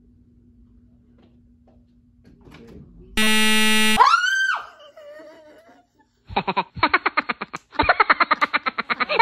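A loud buzzer-like tone lasting under a second, then a short high cry that rises and falls, then from about six seconds in a long run of rapid, rhythmic laughter.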